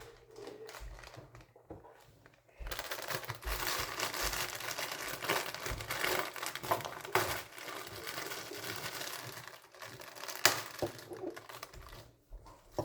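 Cake mix packaging being opened and handled: a bag crinkling and rustling steadily from a few seconds in, with a sharp click near the end.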